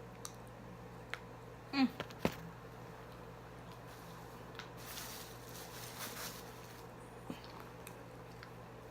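Faint close-up eating noises: scattered small mouth clicks, a short hummed 'mm' about two seconds in, and a soft rustle a little past the middle, over a steady electrical hum.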